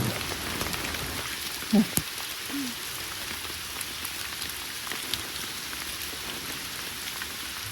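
Steady rain falling, an even hiss of drops. A brief murmur and a single sharp tick stand out about two seconds in.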